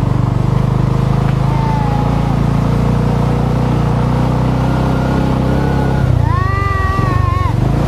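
Motor vehicle engine running steadily on a slippery off-road dirt track. A long wavering pitched tone rises over it about six seconds in and stops about a second and a half later.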